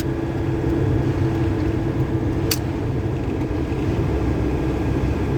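Cab interior of a GAZelle truck with a Cummins diesel engine, under way and loaded: a steady low engine drone with road and wind noise, and one sharp click about two and a half seconds in.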